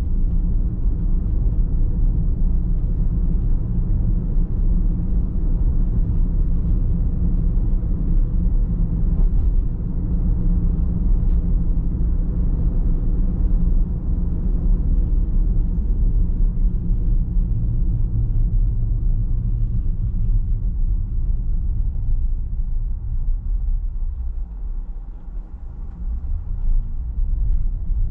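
Steady low rumble of a car driving along the road: tyre and road noise with engine hum. It goes briefly quieter a few seconds before the end.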